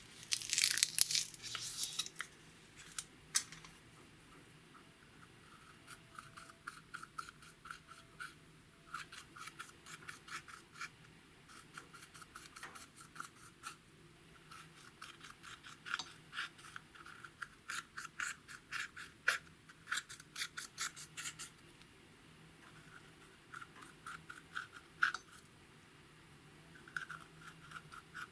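Slime being worked by hand: runs of quick, sticky clicks and pops, with a louder crackling cluster in the first couple of seconds.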